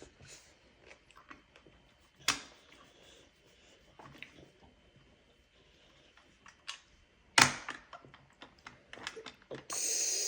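Scattered light clicks and taps with two sharper knocks, about two seconds in and about seven and a half seconds in, then a brief hissing rustle near the end.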